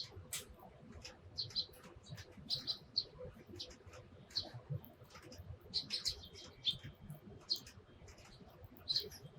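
Eurasian tree sparrows giving short, irregular chirps in quick clusters, with a few sharp clicks among them.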